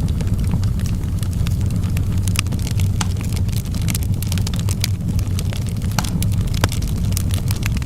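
Wood fire burning in a fireplace: sharp, irregular crackles and pops from the burning logs over a steady low rumble of the flames.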